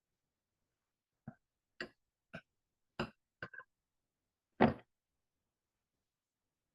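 A sparse series of short clicks and taps, about seven in three and a half seconds, irregularly spaced, the last one the loudest.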